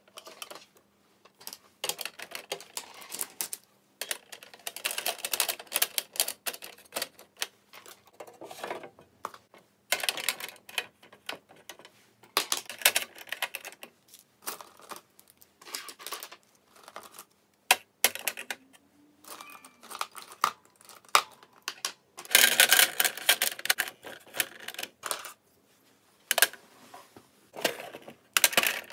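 Close-up clicking and clattering of small hard objects being handled, in irregular flurries with short pauses, loudest in a dense run near the end.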